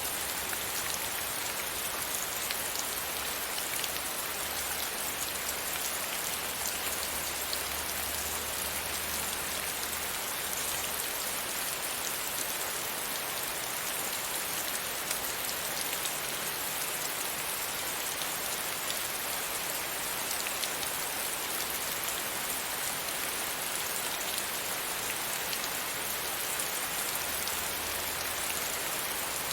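Steady rain falling against a window pane, a dense even patter with many small drop ticks.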